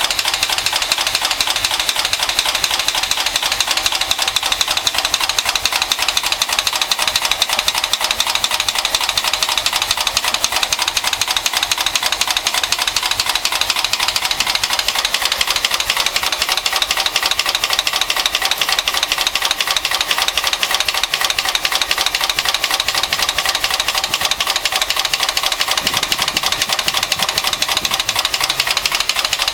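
1974 Mercedes-Benz 450SE's 4.5-litre V8 running steadily with a fast, even knocking, a noise whose cause the owner does not know.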